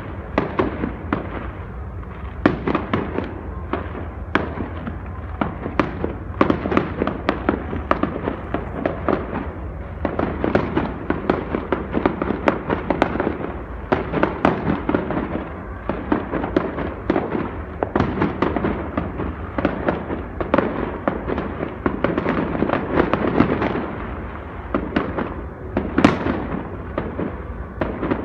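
Fireworks going off continuously: a dense run of overlapping bangs and crackles, with one sharper, louder bang near the end.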